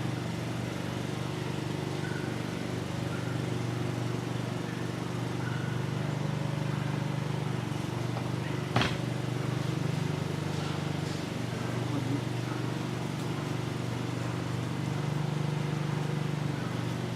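Honeybees buzzing as a steady hum around an open top-bar hive during a comb inspection, swelling and fading slowly. One sharp knock comes about halfway through.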